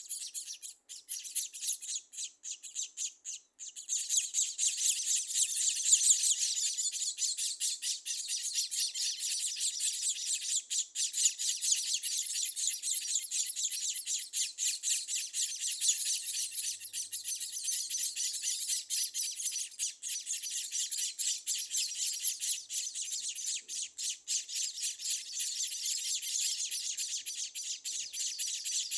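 Scaly-breasted munias calling: dense, rapid, high-pitched chirping that carries on without a break and grows fuller and louder about four seconds in.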